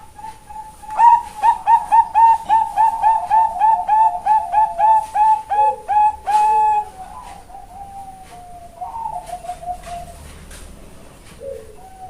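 Bangkok-line zebra dove (perkutut) hen singing: starting about a second in, a rapid run of short staccato coos, about three a second, for some six seconds, then a few softer trailing notes.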